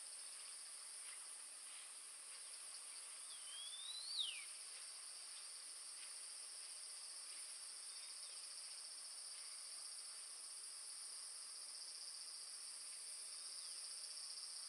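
Forest insects, crickets or cicadas, keeping up a steady high-pitched chorus. About three and a half seconds in, a single whistled call rises and then drops sharply.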